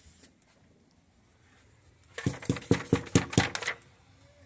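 Rapid knocking on a cabin door: about eight quick knocks in a second and a half, starting about halfway through, from someone locked out without a key card.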